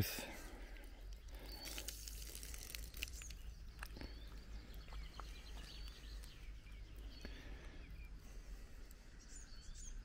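Small birds chirping faintly, a scattering of short high chirps, over a low steady rumble.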